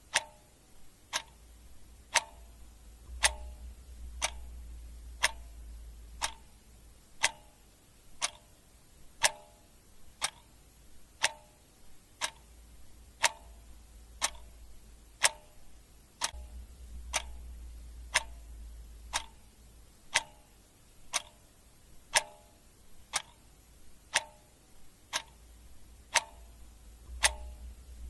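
Clock ticking steadily, one sharp tick a second, with a faint low rumble coming and going underneath.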